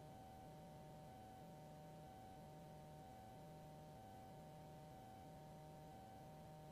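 Near silence on the aircraft intercom/radio audio feed: a faint steady high hum, with a low hum underneath that pulses on and off about once a second.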